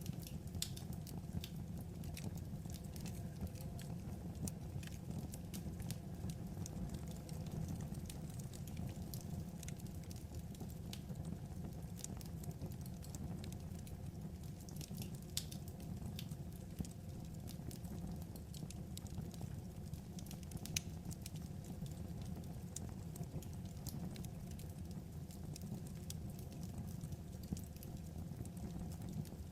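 Wood fire burning: a steady low rumble with irregular crackles and small pops from the burning logs, a few pops standing out louder.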